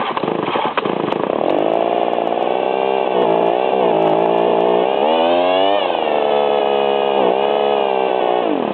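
McCulloch handheld gas leaf blower's small two-stroke engine running cold, without warm-up, its revs wavering and swinging up and down. Near the end the engine speed drops steeply as it winds down.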